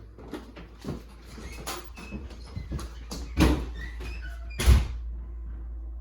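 Scattered clicks and knocks of something being handled, with two louder thuds, the first about three and a half seconds in and the second near five seconds.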